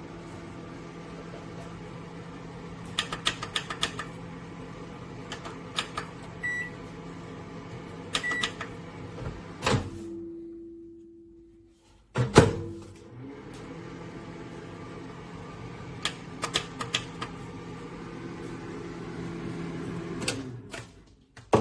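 Russell Hobbs 800 W solo microwave running with a steady low hum and scattered clicks. About ten seconds in, the hum dies away. After a short pause a loud clunk comes and the hum starts again, and a second sharp clunk comes at the very end.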